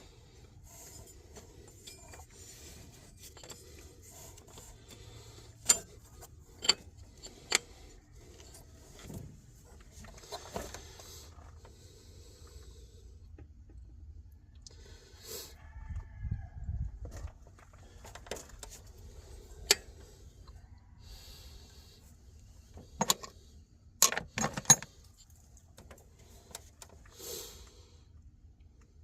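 Scattered sharp metallic clinks and clanks of hand tools and parts being handled during engine work, with rustling between them: three in quick succession about six seconds in, a cluster of louder ones near the end, and a dull low thud in the middle.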